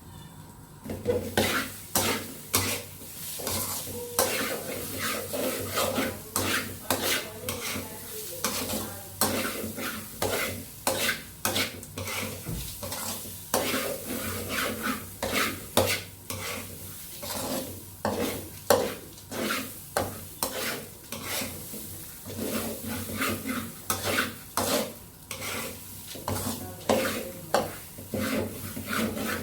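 A cooking utensil stirring in a pot, with repeated scraping and knocking strokes about twice a second, starting about a second in.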